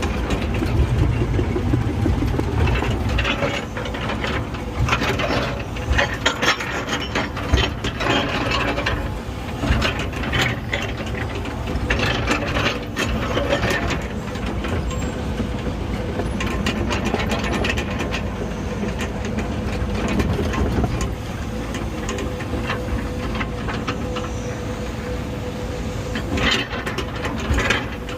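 Earthmoving machine's diesel engine running steadily while it drags and spreads dirt to grade the ground, with irregular metallic clanking and knocking throughout.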